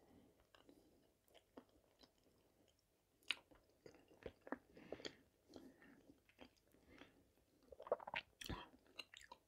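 Quiet chewing and wet mouth sounds of someone eating boiled potato-filled vareniki, with short sharp clicks of a metal fork on the plate, the loudest about three seconds in and again near the end.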